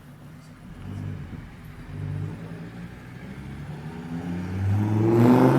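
VW T4's 2.4-litre AAB five-cylinder diesel revving through a tuned exhaust: short blips about one and two seconds in, then a longer rev rising in pitch to its loudest near the end.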